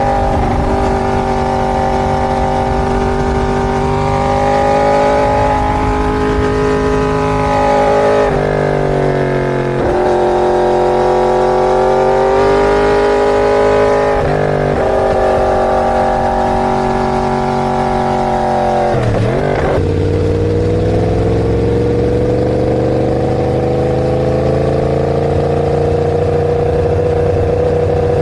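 Inline-four sport motorcycle engine running continuously. Its pitch shifts in steps several times. About two-thirds of the way through it drops sharply, then climbs slowly and steadily as the revs build.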